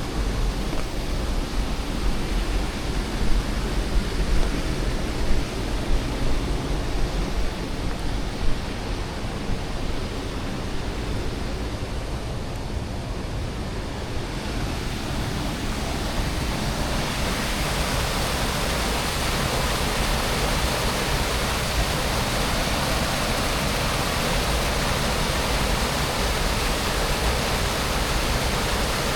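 Waterfall rushing: a steady hiss of falling water, deep and rumbling at first with a few sharp thumps, then turning brighter and fuller about halfway through.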